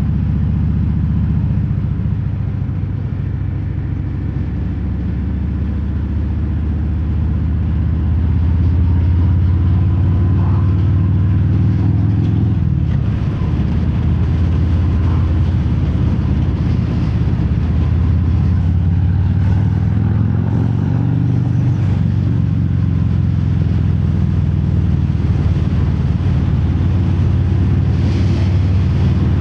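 Harley-Davidson Fat Bob's V-twin running through Vance & Hines Hi-Output slip-on mufflers with no quiet inserts, heard from inside the rider's helmet while riding. It is a deep, steady exhaust note whose pitch rises and falls with the throttle and gear changes, and it gets louder about eight seconds in.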